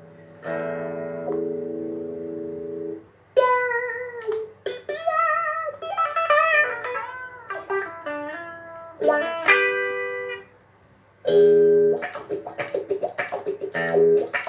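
Electric guitar through a Marshall AVT50 amp, played through a pedalboard of effects. A held chord rings about half a second in, a single-note lead line with bends follows from about three seconds in, and after a short break, chords and rhythmic strumming start near the end.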